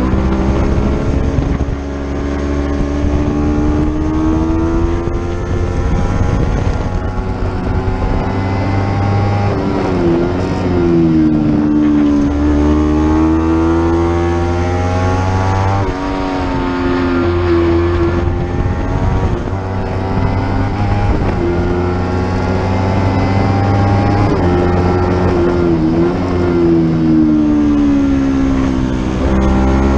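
Lightweight racing motorcycle engine heard onboard under hard riding, its pitch climbing and then falling every few seconds as the rider opens the throttle, shifts and rolls off for corners. Wind rush runs underneath.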